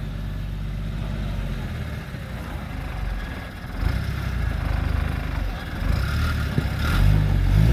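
Off-road vehicle's engine running at low revs as it crawls over rocks, picking up briefly near the end.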